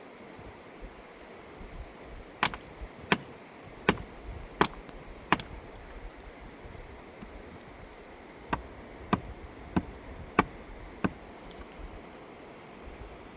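Two runs of five sharp, evenly spaced knocks, about three every two seconds, with a pause of a few seconds between the runs, over a steady hiss.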